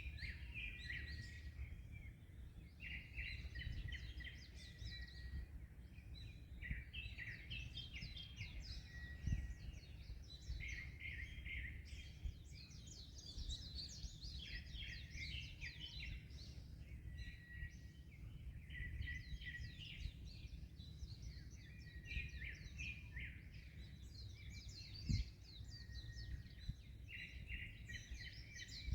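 Many small birds chirping and twittering continuously in overlapping rapid calls, over a steady low rumble of wind and waves. Two brief low thumps stand out, about a third of the way in and near the end.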